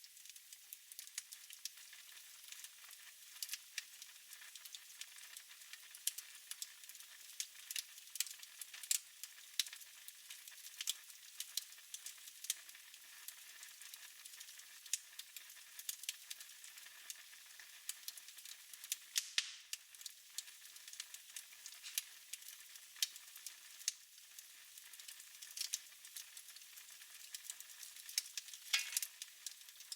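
Wood fire crackling in a fireplace: a soft steady hiss with irregular sharp pops and snaps, and a brief falling whistle just before the end.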